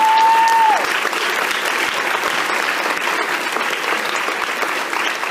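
Audience applauding after a song, with one held whistle from the crowd in the first second.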